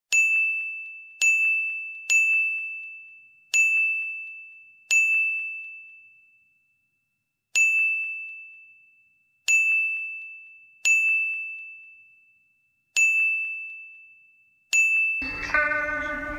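Ten identical chat-message notification dings, one high bell-like tone each, struck sharply and dying away, one for each message that pops up in a chat. About a second before the end, music starts.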